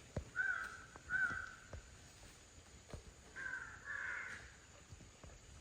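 A bird calling four short times in two pairs, with a few faint knocks.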